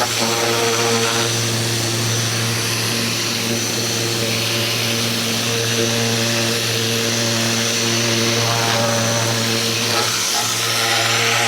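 Ryobi 2000 PSI electric pressure washer running steadily: the even hum of its motor and pump under the hiss of the high-pressure water spray.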